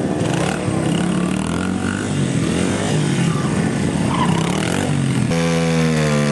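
Small pit bike engines running and revving, their pitch shifting up and down. About five seconds in, one engine is held at steady high revs, its pitch rising a little.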